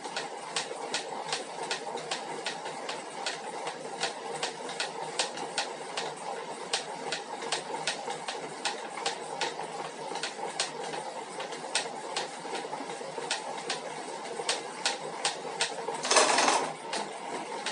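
Elite Suito direct-drive smart trainer running with a steady hum and a regular knock, about two to three a second: the knocking fault the unit is known for. A louder rush of noise lasts about half a second near the end.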